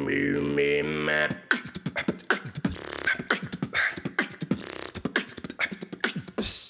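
Beatboxing: a held, pitched vocal tone for about the first second, then a fast run of mouth-made drum hits, several a second.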